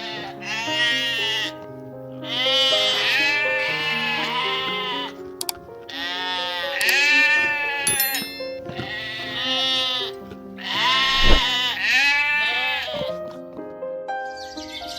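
Sheep bleating again and again, about six drawn-out calls, over background music.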